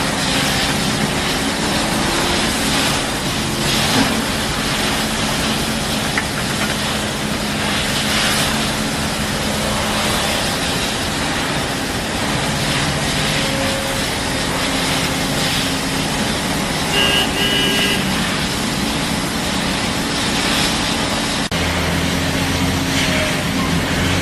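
Heavy construction machinery running, a continuous diesel engine sound with steady low hum. A brief high-pitched beep sounds about two-thirds of the way through, and the engine sound changes suddenly, with a deeper hum, near the end.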